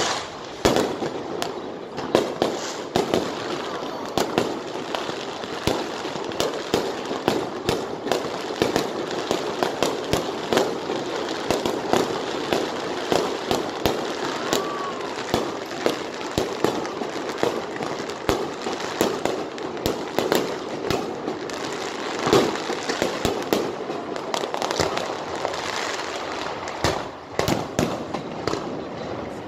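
Aerial fireworks display: a continuous barrage of bangs and crackles from shells bursting overhead, dense and irregular throughout.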